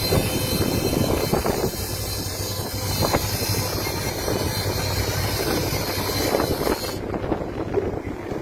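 Fishing boat's engine running steadily with a low hum, under wind buffeting the microphone; a high hiss over it stops suddenly about seven seconds in.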